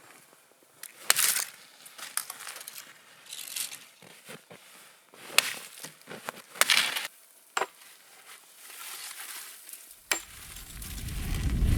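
Irregular crunching in short bursts, typical of snow being trodden or packed. A low rumble builds near the end.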